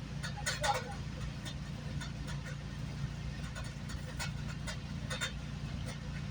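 Inside a moving GO Transit commuter train coach: a steady low hum from the train, with scattered clicks and rattles.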